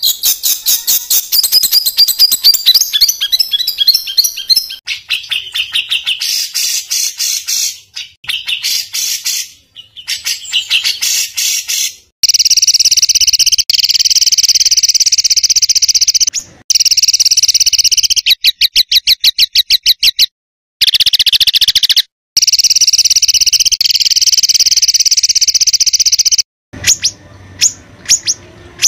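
Songbird giving harsh, rapid-fire trills and call bursts ('tembakan kasar', rough shots), spliced into segments that cut off suddenly with short gaps. The second half is mostly long dense buzzy trills. It is a masteran tutor recording, made to teach caged songbirds such as the white-rumped shama.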